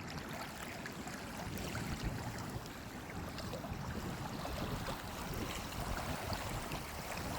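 Steady rush and splash of moving water.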